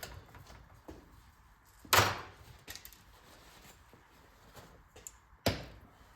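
Two knocks about three and a half seconds apart, with faint clicks between them: small-engine parts being handled and set down on a workbench during a teardown.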